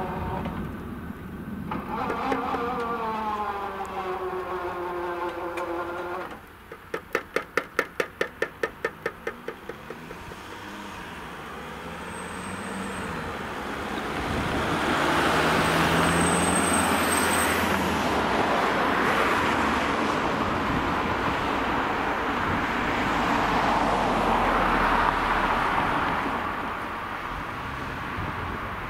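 A train moving off, its engine note falling in pitch, then a quick even run of sharp clacks that fade away. After that, road vehicles swell past over the crossing, two of them loudest.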